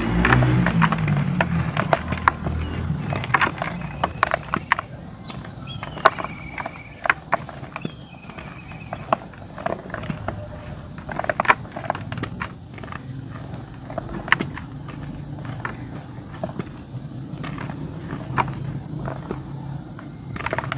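Dry white clay crunching and crumbling in a run of irregular sharp cracks and crackles.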